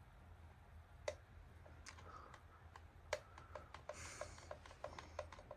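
Hampton Bay Frontera ceiling fan running quietly: a faint steady low hum with scattered light, irregular clicks and ticks.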